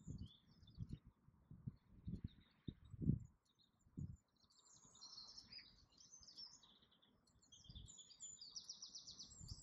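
Small birds singing faintly in high chirps, with a fast, evenly spaced trill near the end. A few low thumps come in the first four seconds.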